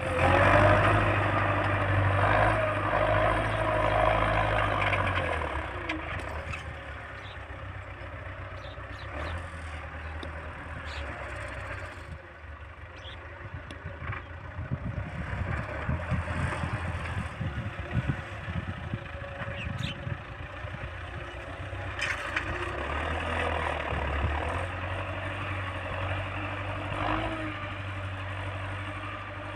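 Tractor diesel engine working steadily while pulling a plough through the field. It is loudest for the first five seconds, drops away, and grows louder again about two-thirds of the way through.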